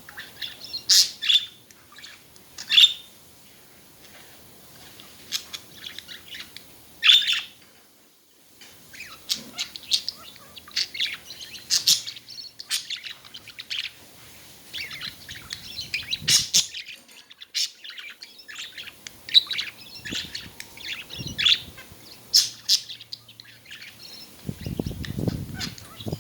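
Pet budgerigars chattering: a steady stream of short high chirps and warbles, with a few louder sharp chirps. Near the end a low rustle is heard under the calls.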